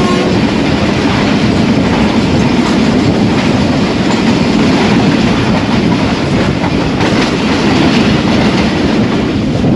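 Loud, steady rush and clatter of a passenger train passing at speed close to an open carriage window, its wheels clicking over the rail joints, mixed with the running noise of the train it is heard from.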